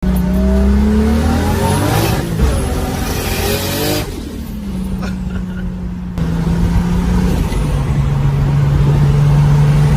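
2JZ straight-six single-turbo engine in a Mk3 Supra pulling hard, its revs rising over the first two seconds, then dropping about four seconds in and settling into steady running at lower revs.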